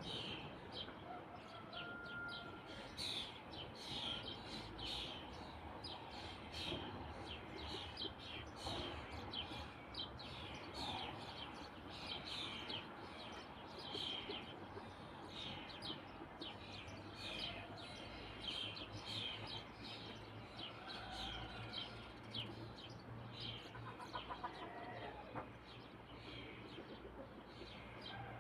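Birds chirping: many short, high chirps repeating quickly and continuously over faint background noise.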